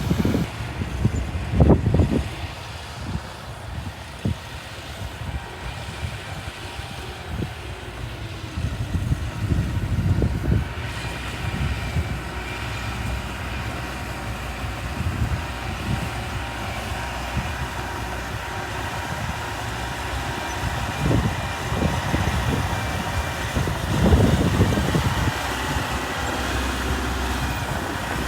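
Diesel engine of a Mitsubishi BD2F bulldozer running as it works soil. The rumble is steady, with several louder low surges.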